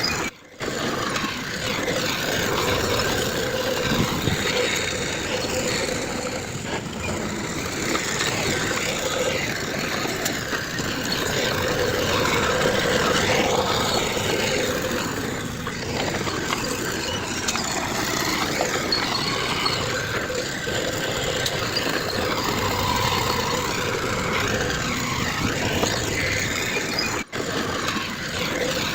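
Diesel engines of heavy earthmoving machinery running steadily. The sound drops out for a split second just after the start and again near the end.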